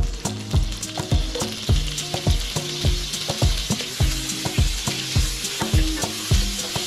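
Butter and chopped garlic sizzling in a wok, stirred with a wooden spatula; the sizzle grows stronger about a second in. Background music with a steady beat plays underneath.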